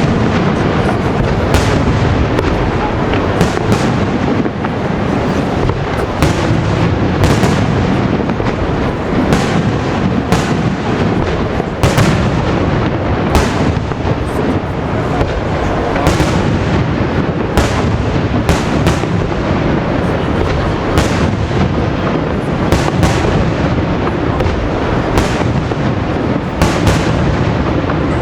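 Fireworks display: aerial shells bursting in quick, irregular succession, one or two sharp bangs a second over a continuous rumble of overlapping reports.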